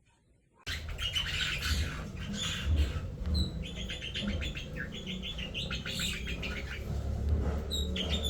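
Many caged birds chirping and squawking, starting suddenly just under a second in, over a steady low rumble.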